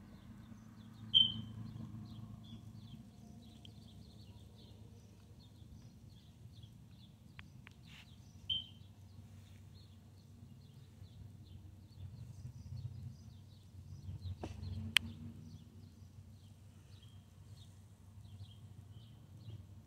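Small birds chirping again and again, with two louder chirps about a second in and about eight and a half seconds in, over a low steady rumble of traffic that swells a little after the middle. A few sharp clicks come near the middle.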